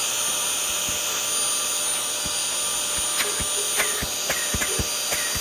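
Carpet-extraction machine's vacuum running hard through its hose: a steady rushing hiss with a high whine. A string of sharp clicks and ticks comes in the second half.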